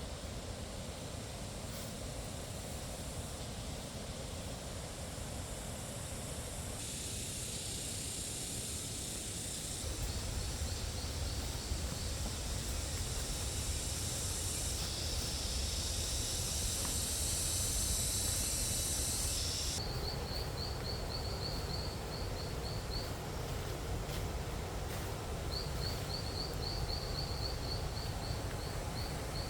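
Steady hiss of rain with an insect, likely a cricket, chirping in trains of quick, evenly spaced high chirps in the second half.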